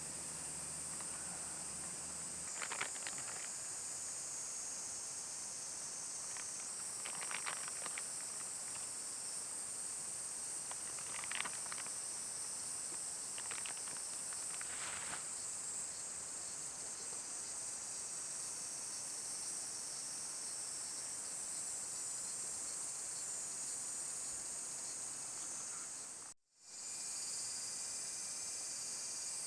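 Steady high-pitched chorus of insects, with a few short, sharper sounds over it in the first half. It cuts out for an instant near the end.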